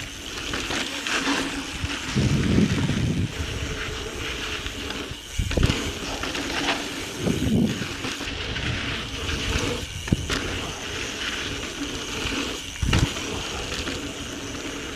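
A 2017 Intense Tracer mountain bike being ridden over a dirt trail: steady tyre and drivetrain rattle, with several sharp knocks as it hits rocks or bumps.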